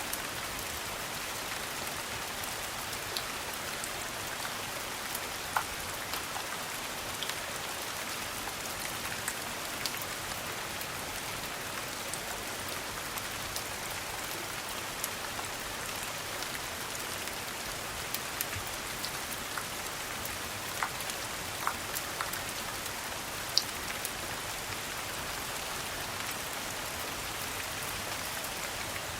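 Steady rain: an even hiss of falling rain dotted with scattered sharp ticks and drips, a few of them louder than the rest.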